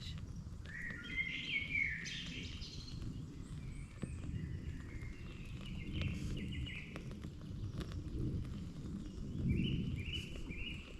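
Songbirds chirping and trilling in woodland: short repeated phrases throughout, with a quicker run of chirps near the end. Under them is a low, even background noise with a few faint clicks.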